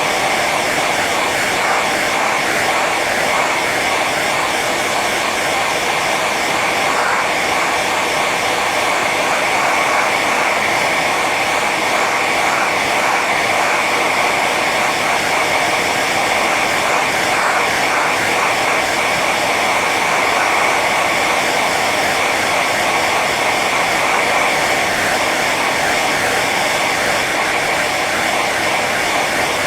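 Hair dryer running steadily on its high setting: an even rush of blown air with a steady whine near the top of the motor's sound.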